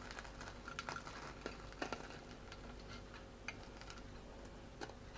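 Cutlery clicking and tapping on a plate as a breadcrumb-coated Kiev is cut open: faint, scattered clicks, about half a dozen spread over a few seconds.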